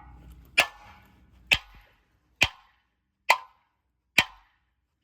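Five evenly spaced hammer blows, about one a second, striking a steel pin in the old hammermill, each with a short metallic ring. The pin is seized and does not move.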